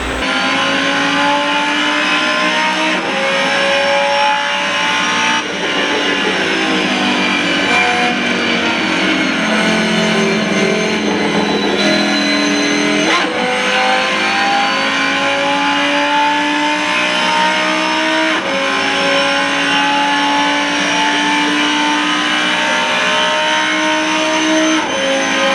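Racing car engine accelerating hard through the gears, its pitch rising, dropping at each shift and rising again, over and over.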